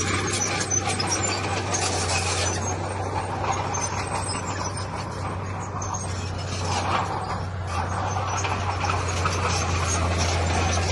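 Heavy diesel earthmoving machinery running steadily, a low engine drone under rough, scraping noise.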